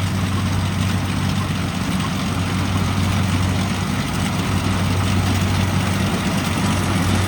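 Combine harvester running steadily in a rice field: a constant low engine hum with an even mechanical noise over it.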